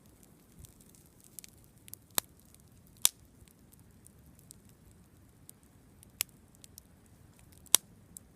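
Campfire wood crackling: scattered faint ticks and four sharp, loud pops, about two and three seconds in, again around six seconds, and near the end.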